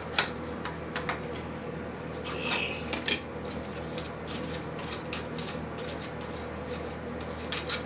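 Metal tools clinking and tapping against the metal chassis of a 1940s wire recorder as it is taken apart to free a nut under its panel. Scattered sharp clicks, with a small cluster about three seconds in, over a steady low hum.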